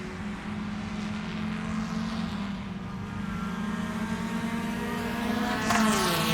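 A motor vehicle's engine running steadily with a low hum. Near the end a louder vehicle sweeps past, its pitch falling.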